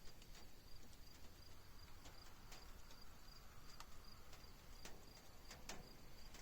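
Faint crickets chirping in short, evenly repeating pulses, with a few sharp ticks scattered over them, the strongest pair about five seconds in.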